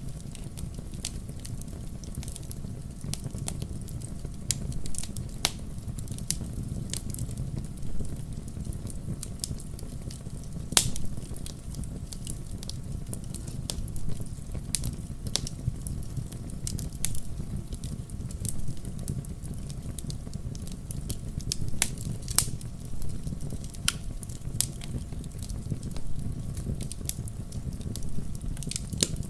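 Wood campfire crackling: a steady low rumble of the burning fire with irregular sharp pops and snaps from the burning wood, a few louder ones scattered through.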